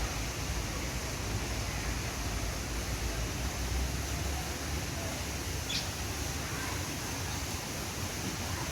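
Steady rush of flowing water in a park, with one short high chirp about six seconds in.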